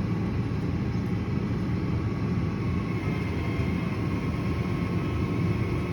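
Steady low rumble of a tow truck's engine running during the towed car's loading or unloading, with a faint steady whine above it.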